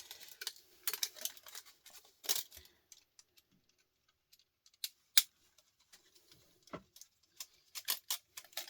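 Irregular light clicks, taps and clinks of small metal scrap parts and hand tools being handled while electronics are taken apart, with a few sharper knocks and short quiet gaps between them.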